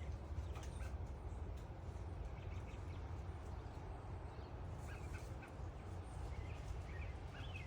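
Several wild birds chirping and calling in short scattered notes, faint over a steady low rumble, with the calls coming more often near the end.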